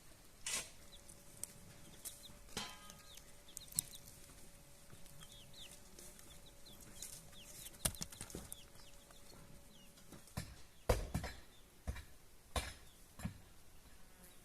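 Birds chirping in many short, falling peeps, with scattered sharp knocks, loudest about 11 seconds in.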